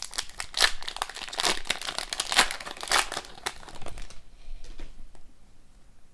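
Hockey trading cards being handled and flipped, with crinkling plastic packaging: dense crinkling and clicking for about four seconds, then a few quieter clicks.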